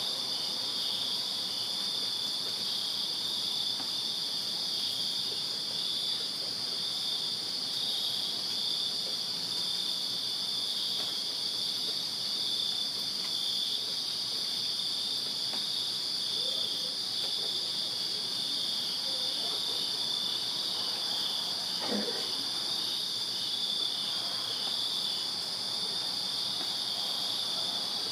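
A night chorus of crickets chirping steadily at two high pitches, one band pulsing rapidly and the other an unbroken trill. A single faint knock comes about three quarters of the way through.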